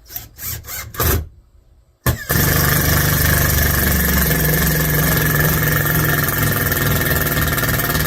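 Cordless drill driving a screw into wood: a few short trigger pulls, then about two seconds in a long, steady run with a high whine.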